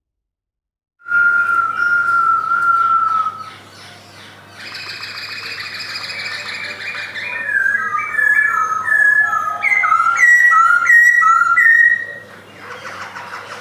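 Black-throated laughingthrush singing: about a second in, one long steady whistled note, then a harsher buzzy phrase, then a run of short clear whistled notes alternating between higher and lower pitches.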